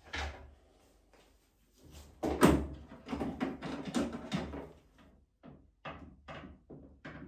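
Knocks and clunks from hands-on work on a washing machine during a drum and bearing repair: a strong knock a little after two seconds, a cluster of knocks after it, then lighter taps about two or three a second near the end.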